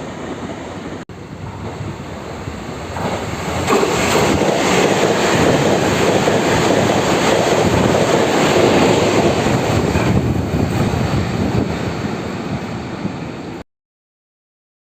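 A TEMU2000 Puyuma tilting express train passes through the station at speed without stopping. The rush of its passing swells about four seconds in, holds, then eases. The sound breaks off briefly about a second in and cuts off abruptly near the end.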